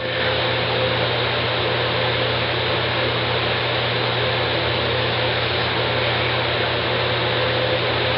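Steady background hiss with a constant low hum and a faint thin steady tone, unchanging throughout.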